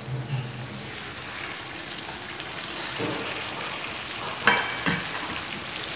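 Hot oil sizzling as raw chicken pieces are tipped into fried onions and tomatoes in a wok. Two sharp knocks come about four and a half seconds in.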